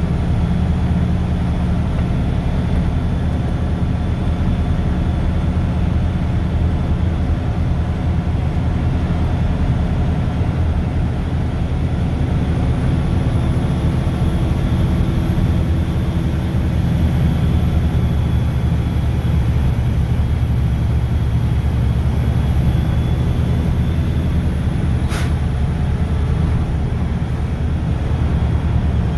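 Mack plow truck's diesel engine running steadily, with a constant low drone and road noise. A single sharp click comes near the end.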